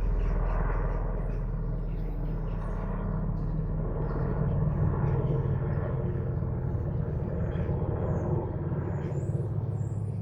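NH90 helicopter's twin-turbine engines and rotors running, a loud steady low hum with a rapid pulsing beat from the rotor.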